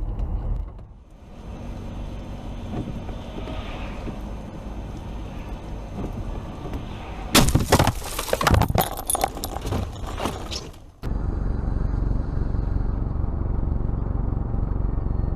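Car road and engine noise, then a car crash about seven seconds in: a sudden loud impact followed by several seconds of clattering and breaking debris that cuts off suddenly. Steady low engine and road rumble follows.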